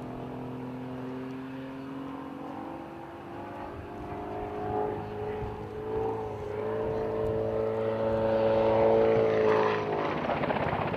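Helicopter in flight, its engine whine and rotor sound growing louder as it approaches, with the pitch rising gently.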